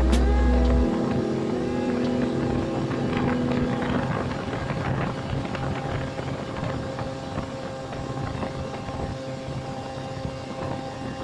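Small aircraft engine running steadily in flight, a drone with a steady hum over rushing air, slowly getting quieter; music fades out in the first second.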